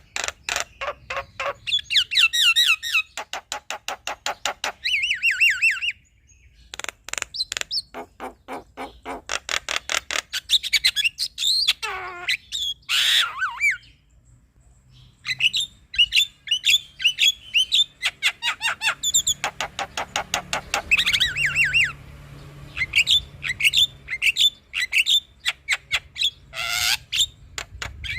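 Male Javan myna singing: fast runs of harsh clicking chatter mixed with squawks and wavering whistled glides, broken by short pauses.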